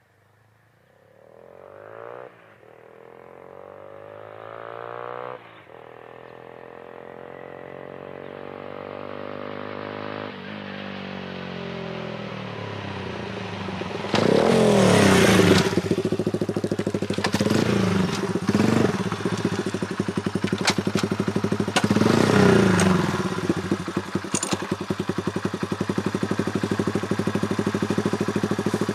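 Honda Super Cub single-cylinder four-stroke through an aftermarket up-swept muffler, accelerating hard and shifting up through the gears as it comes closer and louder, with the pitch climbing and dropping at each of about three shifts. It pulls up close, is revved briefly twice, then settles into a steady, evenly pulsing idle.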